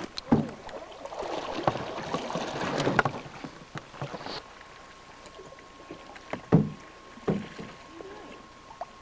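Canoe paddling: water swishing and rushing past the paddle for the first few seconds, with several sharp knocks spread through. A faint steady tone comes in about halfway.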